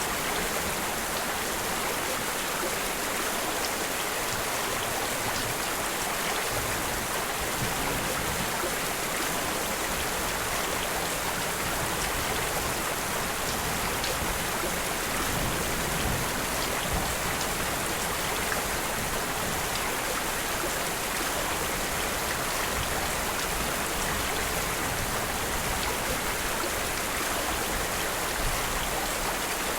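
Steady, even rain falling, a constant hiss of many drops with no change in strength.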